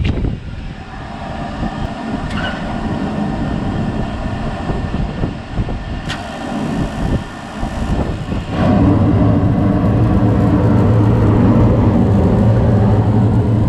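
Rooftop HVAC package unit being started in heat mode: a few sharp clicks, then about two-thirds of the way in it comes on with a steady hum that stays loud.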